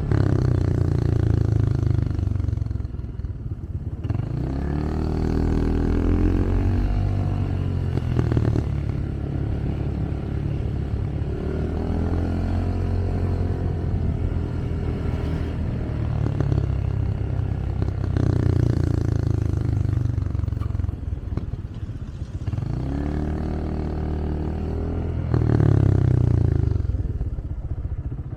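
Motorcycle engine heard from on board, rising in pitch as it accelerates several times and falling back as it eases off, over steady road and wind noise.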